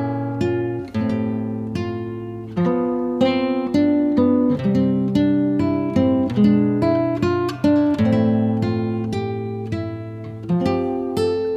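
Background music: acoustic guitar picking a melody of plucked notes, each note struck and then fading.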